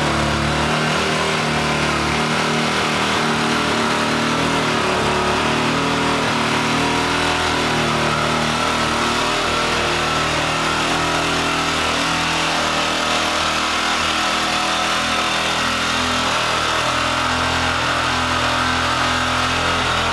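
KTM 530's single-cylinder four-stroke engine idling steadily while still cold, its idle wavering slightly.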